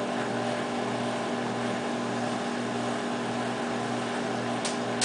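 Microwave oven running with a steady hum, with a watch and an egg inside, and a single short click near the end.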